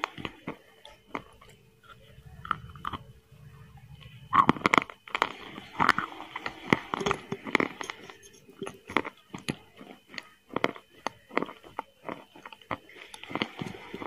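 Close mouth sounds of a person eating chicken biryani by hand: wet chewing and biting with many short smacking clicks. They are loudest and most frequent between about four and eight seconds in.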